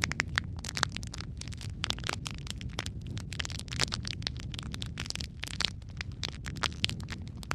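Log fire in a fireplace crackling, with many irregular sharp pops over a steady low rumble of the flames.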